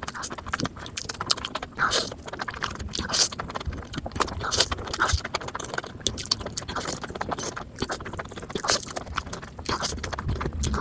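A person eating stir-fried noodles (chowmein), sped up to double speed: a quick, irregular run of chewing and small clicking and scraping sounds.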